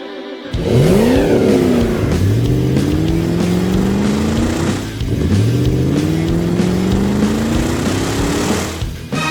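Race car engine accelerating hard, its pitch climbing steadily and dropping back with each gear change, twice. A short musical jingle cuts off about half a second in.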